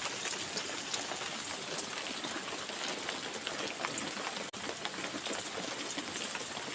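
Heavy storm rain pouring down, a dense steady patter of drops, with a momentary dropout about four and a half seconds in.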